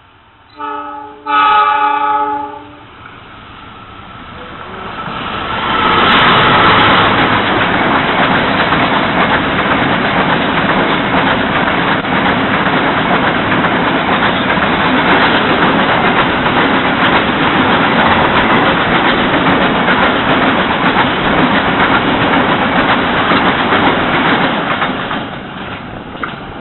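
Diesel locomotive horn: a short blast, then a longer one. Then a freight train of fuel tank wagons passes close by, a loud steady rumble and clatter of wheels on the rails that builds up and fades near the end.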